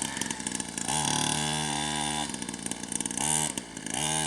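Small 50cc two-stroke dirt bike engine revving: it climbs to a held pitch for about a second, then is blipped twice more briefly.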